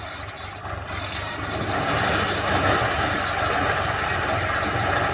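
Swaraj tractor's diesel engine running steadily while driving a maize thresher; a broad rushing noise from the thresher comes up about two seconds in and stays loud.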